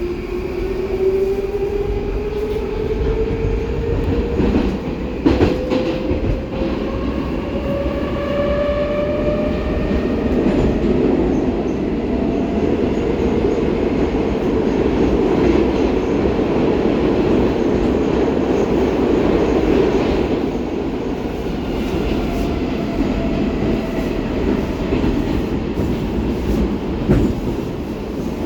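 «Baltiets» metro train heard from inside the car: the traction drive's whine rises steadily in pitch over the first nine seconds or so as the train accelerates, then steady running noise with a few sharp wheel clicks over rail joints.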